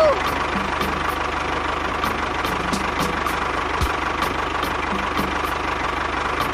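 Tractor engine idling steadily, with a fast, even low chugging.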